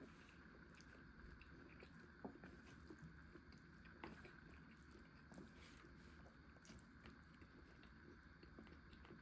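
Faint eating sounds of someone chewing carbonara pasta, with a few soft clicks over a low steady hiss.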